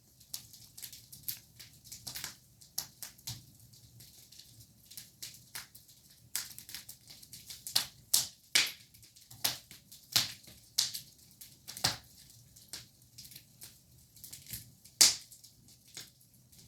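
Fire in a fireplace crackling: irregular sharp pops and snaps, with a few louder ones.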